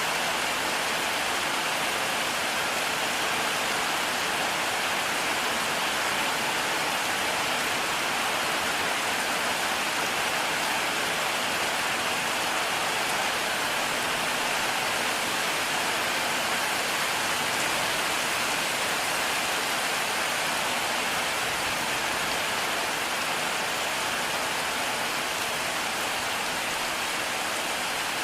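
Heavy rain falling steadily, an even unbroken hiss of drops with no thunder.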